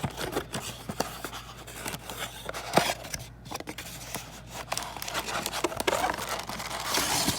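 Packaging of a Panini Mosaic trading-card blaster box crinkling and tearing as it is opened by hand, with irregular small clicks and rustles.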